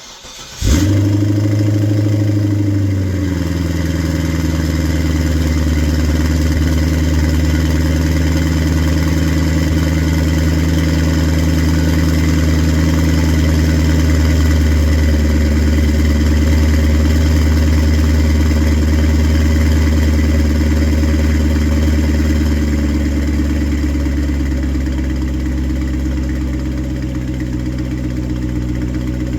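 2008 Cadillac XLR's V8 breathing through a Corsa aftermarket exhaust, started up: a brief crank, a flare of revs for about two seconds, then a steady idle that settles a little lower and quieter near the end.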